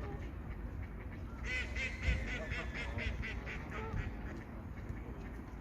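Ducks quacking, a quick run of calls about five a second starting around a second and a half in, with a steady low rumble underneath.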